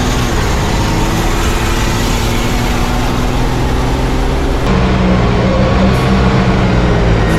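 Racing truck engine running hard, a loud steady drone whose pitch drifts slowly. About halfway through, the sound changes abruptly to a stronger, lower engine note.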